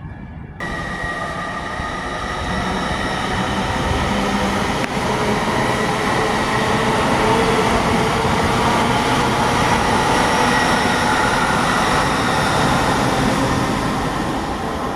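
A train running along the station platform: a steady rush with a ringing whine, cutting in suddenly about half a second in, growing louder over the first several seconds, holding, then easing near the end.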